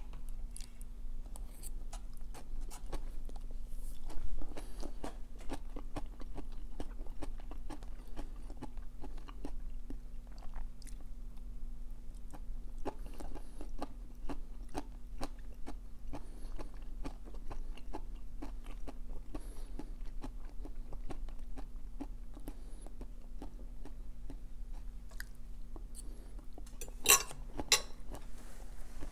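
Close-miked chewing of a mouthful of bibimbap vegetables and noodles: continual small wet mouth clicks and light crunches. There is a louder sharp sound about four seconds in and a louder pair near the end.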